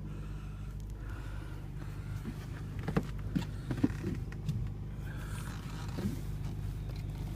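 Steady low hum of a Honda Civic idling, with a handful of sharp clicks and creaks about three to four seconds in.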